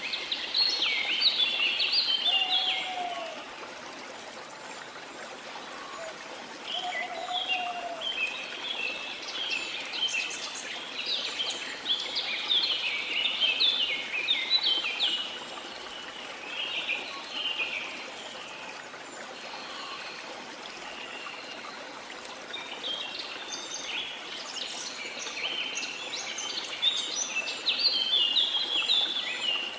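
Songbirds singing in quick chirping phrases in three bouts, with a few short, lower whistled calls early on, over a steady rush of running water.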